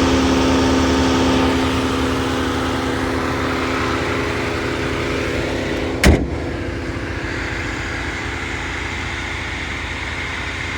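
2017 BMW 330i's turbocharged four-cylinder engine running steadily, with one sharp thump about six seconds in.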